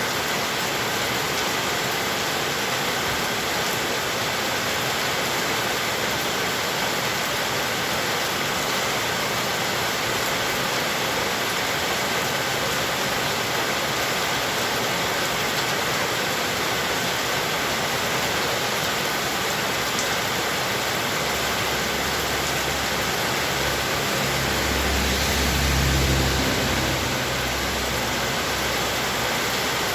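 Heavy rain falling steadily in an even hiss. About three quarters of the way through, a low rumble swells, peaks and fades over a few seconds.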